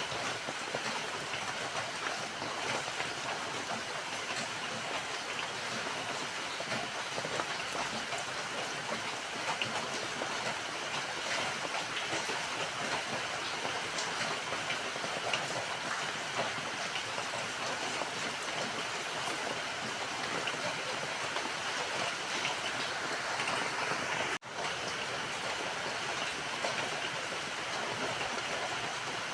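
Steady rain falling, with a dense patter of drops. The sound drops out for a split second about 24 seconds in, then resumes.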